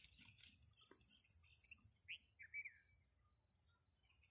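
Near silence with faint bird chirps: a few short calls about two seconds in.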